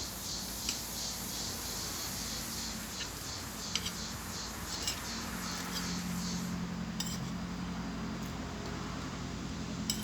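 Cutlery clinking and scraping against a plate during eating, about half a dozen sharp separate clinks over a steady low hum.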